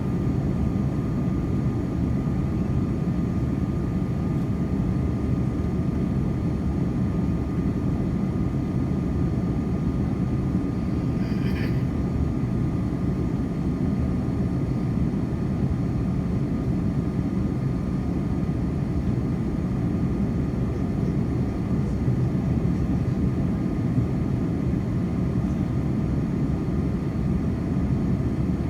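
Steady engine and airflow drone inside the passenger cabin of an Airbus A330-300 jetliner, low and even throughout, with a faint steady whine above it. There is a brief faint click about eleven seconds in.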